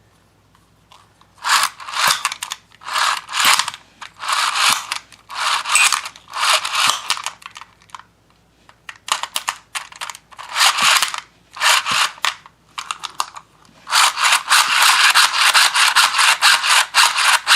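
Beyblade string launcher's pull cord drawn out and wound back in by its spring, its plastic gears running with a rapid ratcheting whir. It goes in about ten short pulls, then a longer unbroken run near the end.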